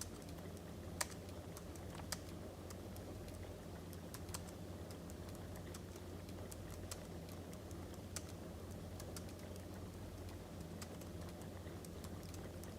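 Wood fire crackling: scattered, irregular sharp pops and ticks over a steady low rumble.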